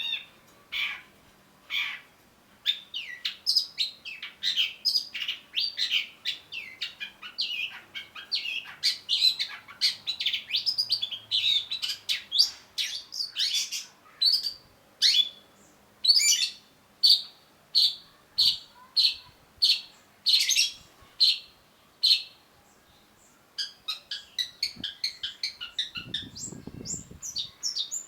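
Long-tailed shrike singing: a fast, varied run of high chirps and whistled notes, easing into a string of evenly spaced single notes in the middle, then a rapid chatter near the end.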